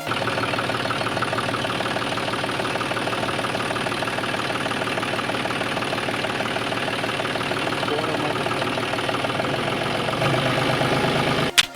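Small engine of a mini tractor idling steadily with a fast, even putter, slightly louder for its last second or so.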